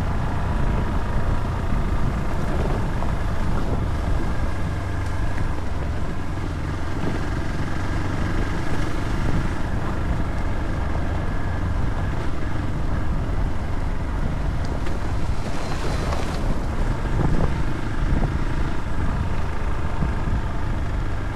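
Motorcycle engine running steadily while riding, with wind rushing over the microphone. A brief hiss comes about three-quarters of the way through.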